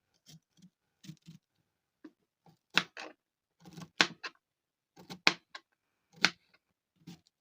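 Irregular sharp knocks and clicks, four louder ones roughly a second apart, with fainter taps between them.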